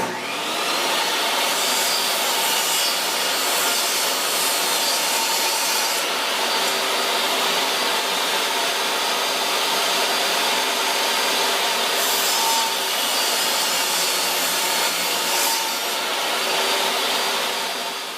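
Electric power saw running and cutting 3/4-inch plywood for a birdhouse's side pieces. It starts suddenly, holds a steady whine with a coarse cutting noise for about eighteen seconds, and winds down at the very end.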